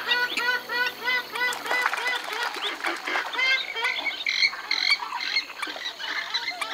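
Western swamphens calling: many short arched notes in rapid overlapping series from several birds, with two louder, higher-pitched calls about four and a half seconds in.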